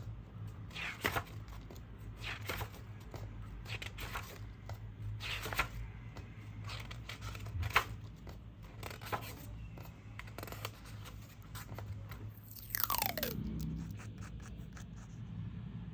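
Oil pastel strokes scratching across paper, one rough crunchy stroke about every second or so, with a brief falling squeak near the end and a low steady hum underneath.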